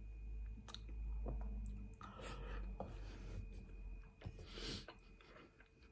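A person chewing a mouthful of cheesy spaghetti, with a metal fork scraping and clicking against a frying pan about four seconds in.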